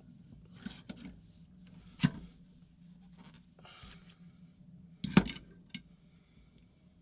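Hose separation pliers working on a paintball marker body clamped in a vise to pull a roto-breach rod: light metal scraping with two sharp metallic clicks, one about two seconds in and a louder one about five seconds in.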